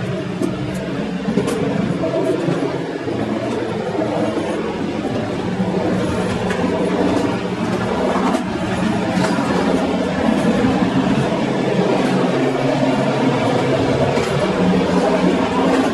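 TLK passenger train running along the track at speed: a steady rolling rumble with scattered clicks from the wheels on the rails.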